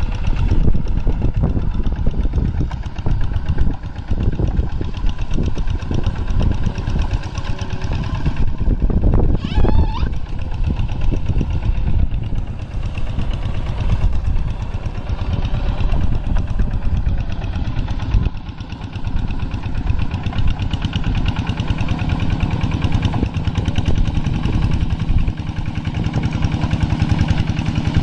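Kubota tractor's diesel engine running steadily under load while pulling a moldboard plough through a rice paddy, with irregular low knocks and rattles. A brief wavering tone rises and falls about nine seconds in, and the engine note settles into a steadier hum over the last few seconds.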